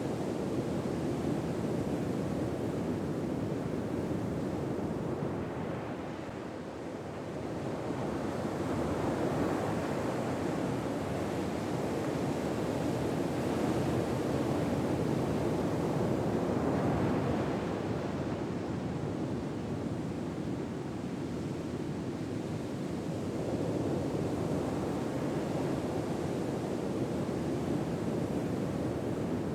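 Ocean waves washing on a shore: a steady rush of surf that swells and eases slowly over several seconds.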